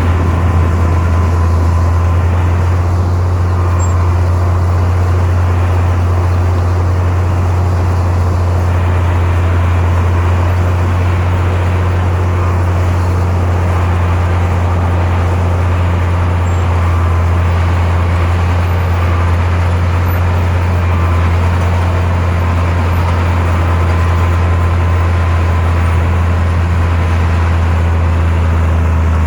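Heavy diesel engine of earthmoving machinery running steadily with a deep, constant drone and no change in pitch or level.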